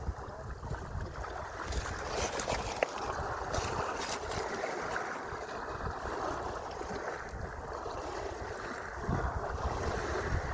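Sea waves washing and splashing, with wind buffeting the microphone in low gusts.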